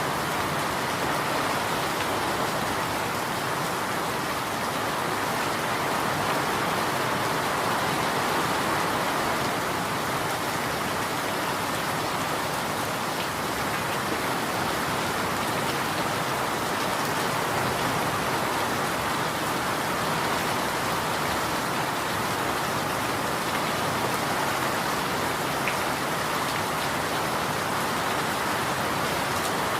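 Steady rain falling: an even, unbroken hiss of many drops that holds the same level throughout.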